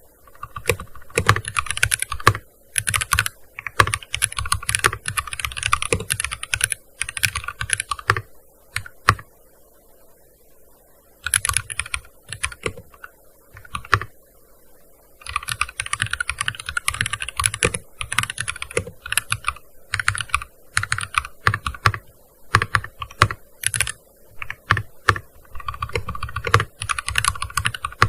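Typing on a gaming keyboard: fast runs of keystrokes broken by pauses, the longest lull of a few seconds near the middle.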